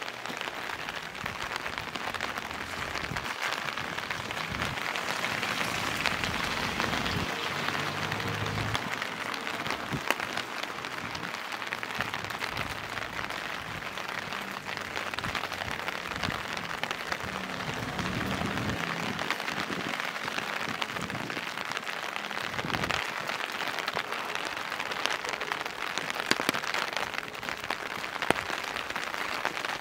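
Steady rain falling and splashing on hard surfaces, with many small sharp drop ticks through it.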